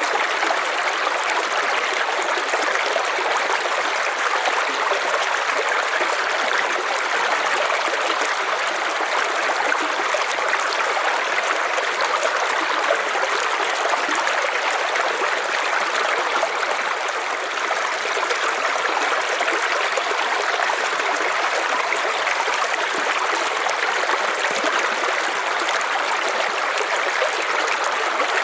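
River water flowing, a steady even rushing and babbling.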